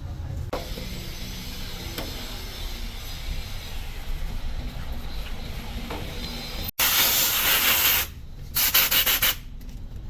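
Gearbox parts being scrubbed while they are cleaned, a steady scratchy rubbing. Just before seven seconds in, a loud hissing blast starts and stops abruptly after about a second. A second, shorter, pulsing blast follows near nine seconds.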